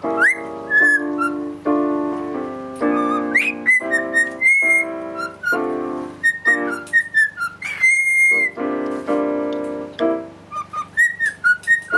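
Cockatiel whistling a melody in short clear notes with quick upward swoops and a few held tones, over piano music playing chords.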